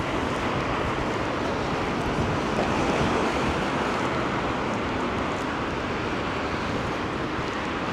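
Steady rushing noise of a wet town street: rain and tyres of passing traffic hissing on the wet road.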